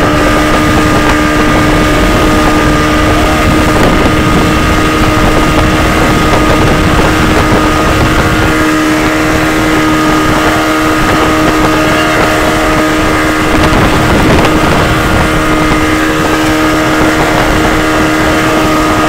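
Motorboat engine running steadily at speed while towing a banana boat, a constant drone with wind buffeting the microphone.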